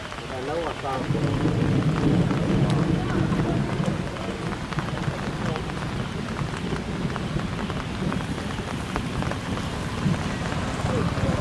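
Steady rain falling, with many individual drop ticks, and a low rumble that is heaviest from about one to four seconds in.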